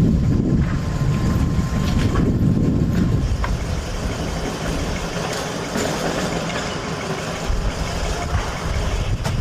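Electric street-transit vehicle running, a heavy low rumble carrying a thin steady whine that stops about three and a half seconds in, followed by a quieter, noisier rumble.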